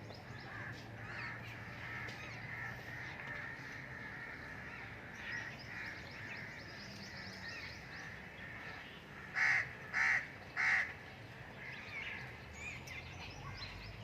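Birds chirping and twittering steadily, with three loud, short bird calls in quick succession a little past halfway through.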